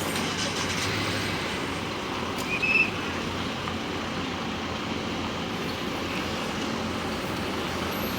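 Large coach's diesel engine running steadily amid traffic, with one short high-pitched squeak about two and a half seconds in.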